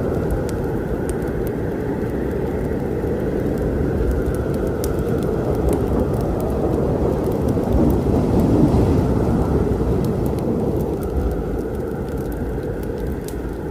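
Rolling thunder over steady rain, the low rumble swelling about two-thirds of the way through and then easing off, with scattered sharp crackles and pops of a wood fire.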